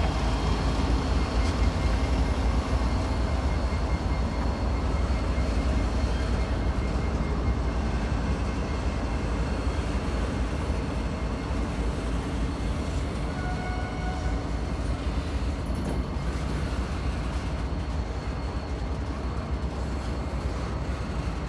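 Double-stack intermodal freight train creeping past, its container well cars rolling by with a steady low rumble that eases slightly toward the end.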